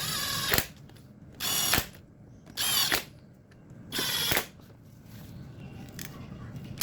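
Power tool run in four short bursts of about half a second each, with pauses of about a second between them.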